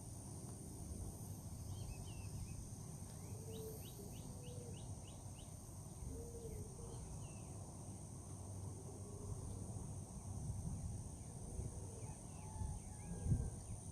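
Outdoor ambience with a steady high insect buzz and scattered bird chirps, including a quick run of about eight chirps about three and a half seconds in, over a low rumble that swells briefly near the end.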